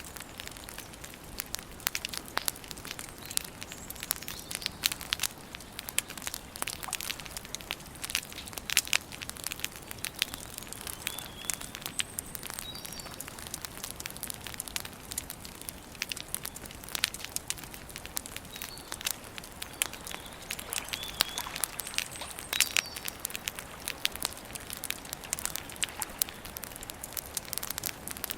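Campfire crackling and popping in dense, irregular snaps. A bird chirps faintly and briefly a few times in the background.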